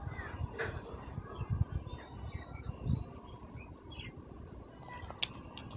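Small birds chirping in the background, short scattered calls, over soft low thumps and rustling. A few sharp clicks come about five seconds in.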